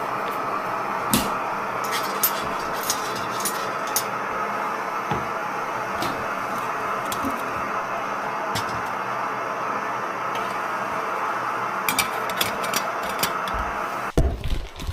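Steady hiss of a camping stove burning under a pot of water for a brew, with scattered light clinks of cookware. The hiss cuts off suddenly near the end.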